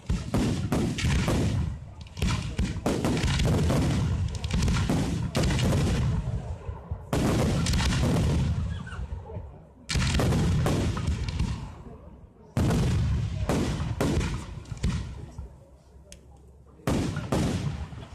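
Fireworks display: aerial shells bursting in rapid, dense volleys of bangs. The bangs come in several waves, each dying away before the next, with a last short volley near the end.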